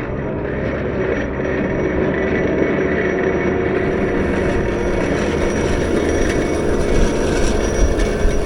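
Caterpillar 908 compact wheel loader's diesel engine running steadily while plowing snow.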